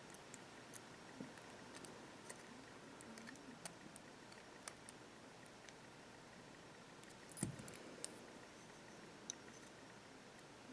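Near silence with faint, scattered clicks and taps of small parts being handled, and one soft knock about seven and a half seconds in.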